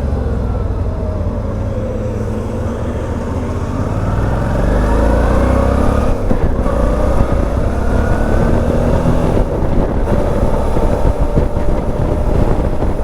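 Suzuki V-Strom 650's V-twin engine running under way, heard with wind rumble on the microphone. About four seconds in it gets louder and the revs climb, and they climb again a few seconds later.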